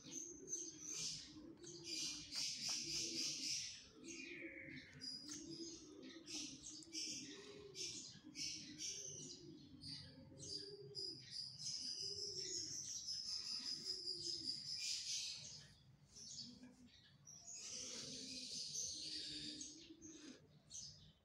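Small birds chirping rapidly and continuously, with a fainter low call repeating about once a second underneath.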